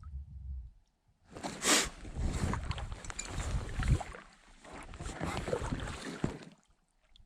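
Paddle strokes in lake water beside a packraft: a few uneven rushes of splashing and dripping, starting about a second in and fading out near the end.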